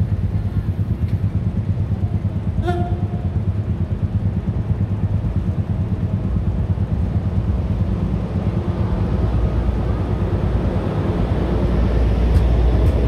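Locomotive-hauled train approaching a level crossing and passing close by, a steady low rumble that grows louder over the last few seconds as the locomotive goes past. A brief pitched sound is heard about two and a half seconds in.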